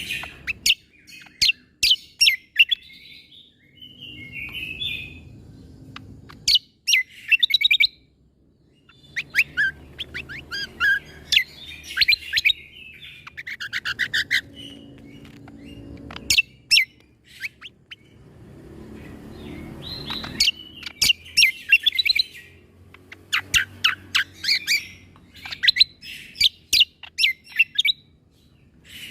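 Cucak kombo (kecial kombok) songbird singing in repeated phrases of sharp, snapping 'shot' notes and quick chattering trills, with short pauses between phrases. A faint low rumble lies under the song.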